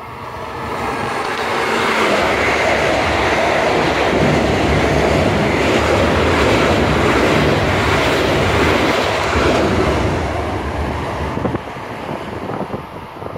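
Long Island Rail Road electric commuter train passing close by, its wheels and running gear making a loud, steady rush and rumble that builds over the first couple of seconds. The sound drops off sharply near the end.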